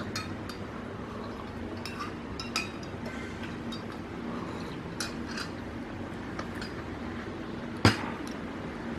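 Cutlery clinking lightly against tableware while someone eats, in scattered small clicks, with one sharper knock about eight seconds in.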